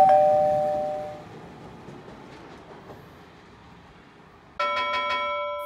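A two-note descending ding-dong chime, then a Nishitetsu 7050 series electric train running away down the line, its rumble fading. A chime-like musical chord comes in near the end.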